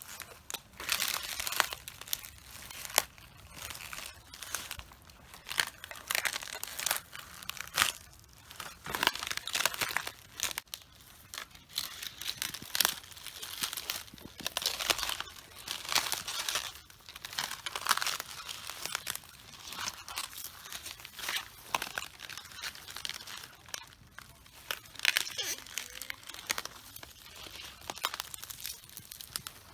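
Feet crushing cabbages, with crunching, crackling leaves snapping and tearing in irregular bursts, about one a second.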